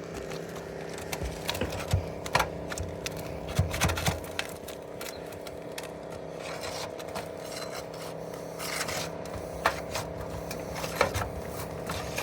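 A tool being slid and worked under asphalt roof shingles to lift them and break their seal, giving irregular scrapes and sharp clicks and cracks. This is a test of whether the old shingles can be lifted for repair. A steady hum runs underneath.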